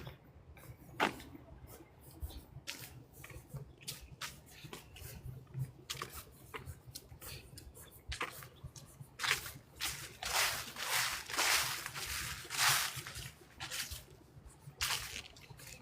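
Footsteps crunching through dry fallen leaves: scattered steps at first, then about two steps a second, louder, from about nine seconds in.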